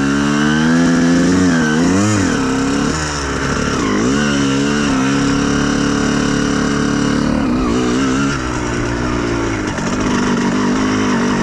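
Honda CR125R two-stroke single-cylinder engine being ridden, its revs rising and falling repeatedly with the throttle and held steady for a few seconds in the middle.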